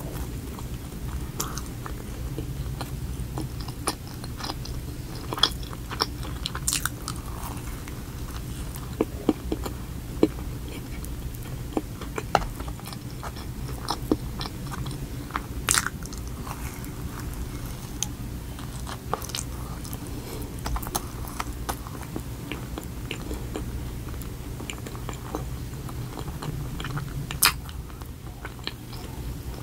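Close-up chewing and biting of a soft donut with yellow icing, with wet mouth sounds and scattered sharp clicks. A steady low hum runs underneath.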